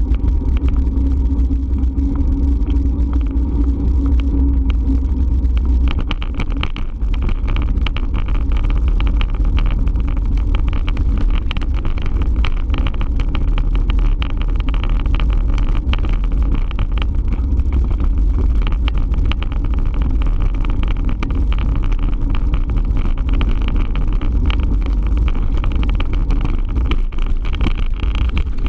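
Steady wind rumble on the microphone with road noise from a bike on the move. A low hum runs for the first few seconds and gives way to a rattly, choppier noise about six seconds in.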